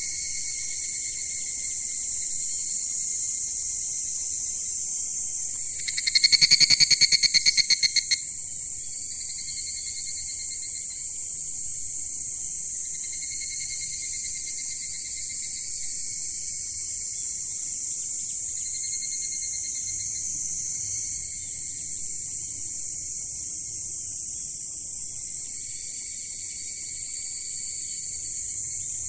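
A chorus of calling insects: a steady, high shrill drone with a lower trill that comes and goes every few seconds. About six seconds in, a loud, rapid rattling call lasts about two seconds.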